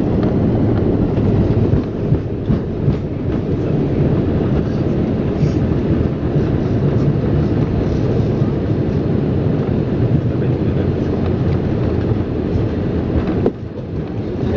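Steady heavy rumble in the cabin of an Airbus A320 during landing, with a few knocks about two to three seconds in. The noise drops suddenly near the end.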